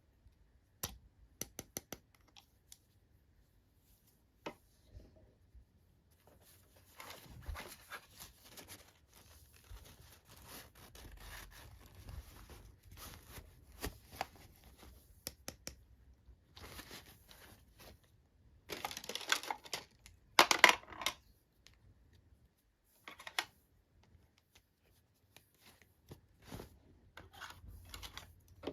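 Toy packaging being torn open and handled: scattered sharp clicks and stretches of rustling, with the loudest tearing bursts about two-thirds of the way through.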